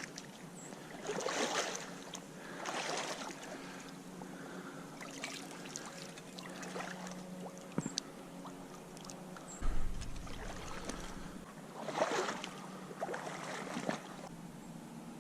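Water swishing and splashing in separate strokes, a few seconds apart, over a faint steady hum, with a single sharp click in the middle.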